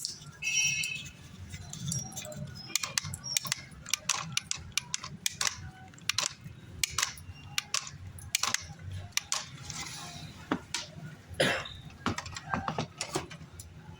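Irregular sharp clicks and light clattering of small hard objects being handled, over a low steady hum.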